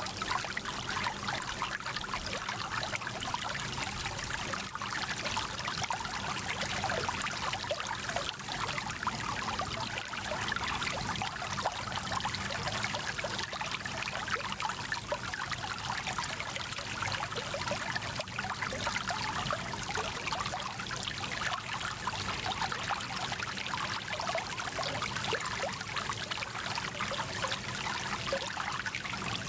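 A small mountain stream running over stones: steady rushing and trickling water with many small splashes, strongest in the high range.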